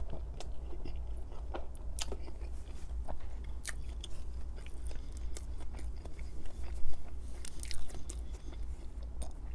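Close-miked chewing of a mouthful of food in tomato sauce, with scattered wet mouth clicks and smacks; the loudest smack comes about seven seconds in.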